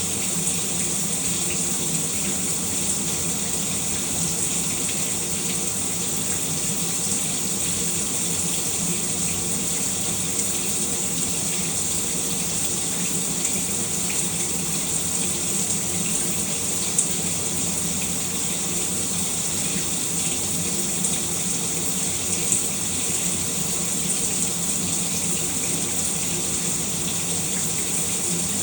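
Shower spray running steadily, an even hiss of falling water with a faint low hum beneath it and a couple of small splashes or drips partway through.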